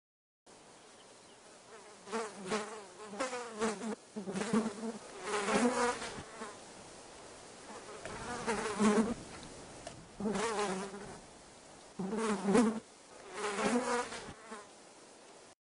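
Housefly buzzing in about seven short bursts, each with a wavering pitch and rising and falling in loudness.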